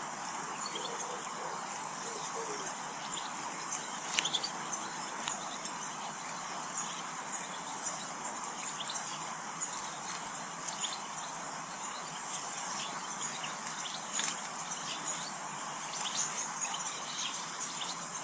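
Small garden birds calling with many short, high chirps scattered throughout, a few louder ones standing out, over a steady background hiss.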